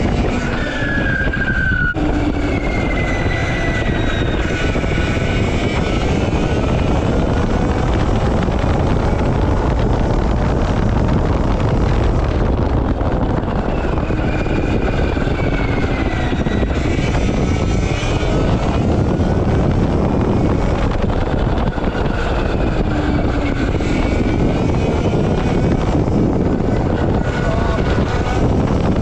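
RFN SX-E15 Plus electric dirt bike being ridden: a motor whine rising and falling with speed under heavy wind rush.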